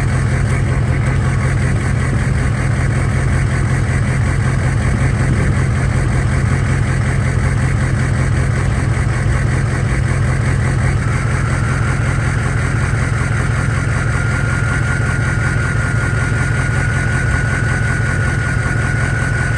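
A 2004 Ford F350's 6.0 Powerstroke V8 turbodiesel idling through a straight-piped exhaust, muffler and catalytic converter deleted, with a steady low rumble. About halfway through, a high turbo whistle comes in and holds, creeping slightly up in pitch.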